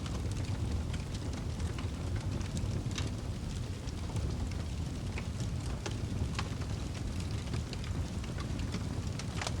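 Wood fire burning in a fireplace: a steady low rumble of flames with frequent sharp crackles and pops, a louder pop near the end.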